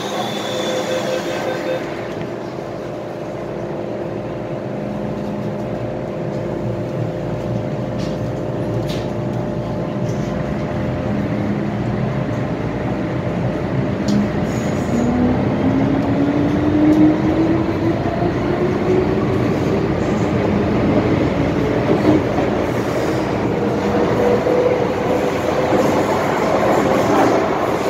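MTR M-Train electric multiple unit running, with wheel and rail noise throughout. From about halfway a motor whine rises steadily in pitch as the train accelerates.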